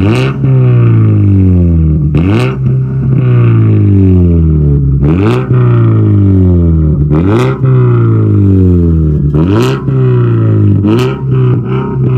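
2014 Mazda 3's 2.0-litre four-cylinder engine being revved repeatedly through a straight-piped exhaust, with the catalytic converter hollowed out, the resonator deleted and 3-inch piping. There are about six sharp blips, each dropping back slowly before the next.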